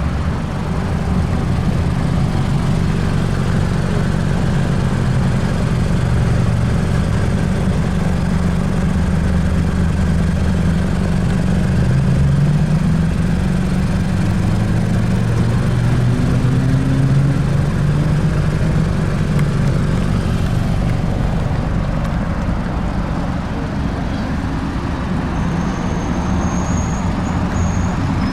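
Car engine running with a steady low rumble, its pitch rising and falling for a few seconds around the middle.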